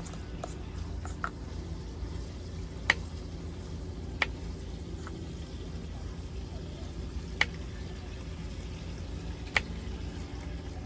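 Camp cooking sounds over a low steady hum, with four sharp clicks spread through, typical of utensils knocking on a pan or pot.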